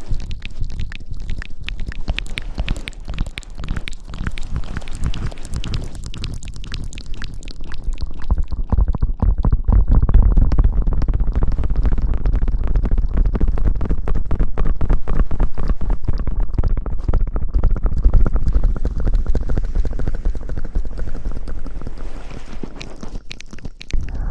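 Hands rubbing and scrubbing right on the microphone in ASMR 'hair washing': a dense, close crackle over a low rumble, growing louder about ten seconds in.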